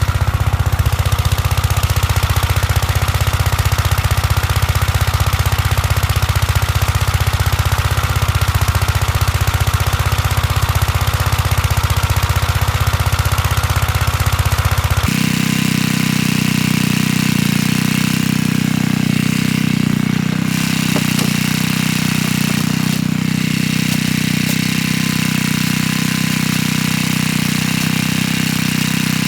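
1959 Gravely Model L tractor's single-cylinder engine running steadily. About halfway through, its note shifts abruptly to a higher pitch.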